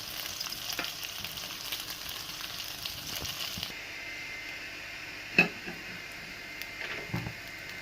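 Hot oil sizzling in a frying pan after browning chicken pieces. The sizzle thins out a little past halfway, and two sharp knocks sound in the second half.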